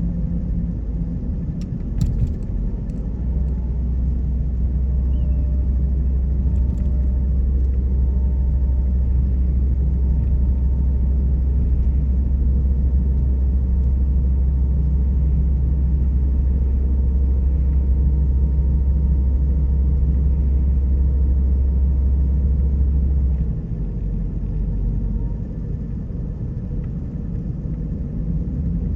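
A car driving along a road: steady low rumble of engine and tyres, heaviest for most of the stretch and easing off somewhat about three quarters of the way through. A couple of faint clicks about two seconds in.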